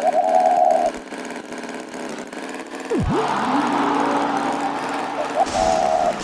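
Cartoon vehicle sound effects: a horn honks at the start and again near the end, with a quick swooping sound about halfway and an engine running after it.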